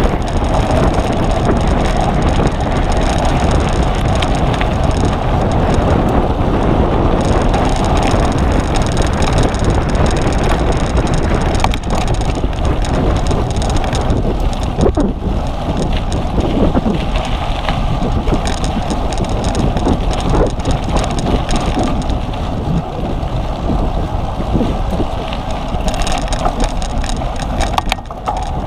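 Wind rushing over the microphone with the steady rumble and rattle of a cyclocross bike ridden fast over rough ground, with a few sharp knocks along the way.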